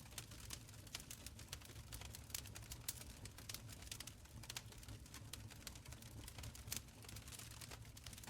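Wood fire crackling in a stone fireplace: a steady scatter of sharp crackles and pops over a low, soft rumble of the flames.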